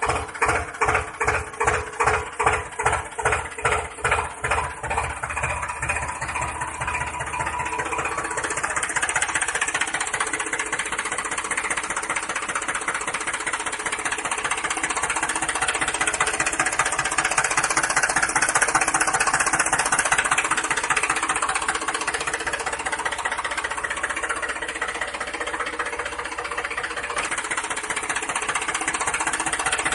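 A small engine running: it chugs slowly and evenly at about three or four beats a second, then about five seconds in speeds up into a faster, steady run.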